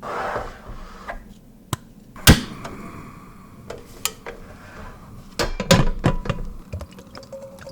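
Cookware and kitchen utensils being handled: one sharp knock about two seconds in, the loudest, with a short ring after it, then a cluster of knocks and clinks a little past halfway.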